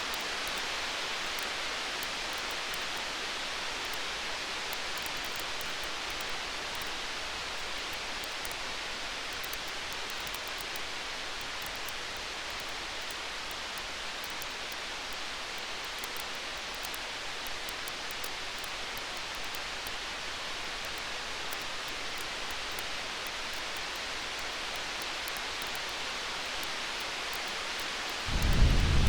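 Campfire burning with a steady hiss and scattered faint crackles. Near the end a deep rumble of distant thunder rolls in and becomes the loudest sound.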